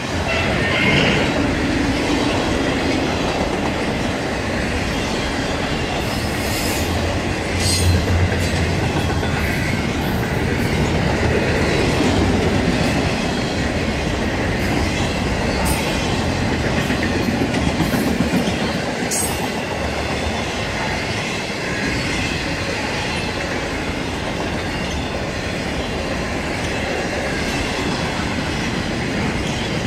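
Intermodal freight cars, double-stack container well cars and trailer-carrying flatcars, rolling steadily past at close range: a continuous noise of steel wheels on rail, with a few brief high-pitched squeaks between about 6 and 20 seconds in.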